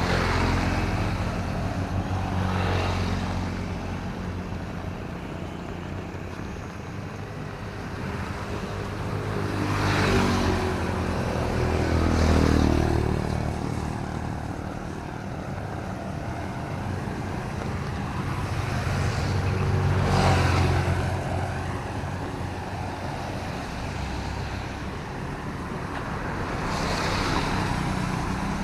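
Motor vehicles passing one after another on a wet city road, each one's engine hum and tyre hiss swelling and fading away. Several go by, the loudest near the middle.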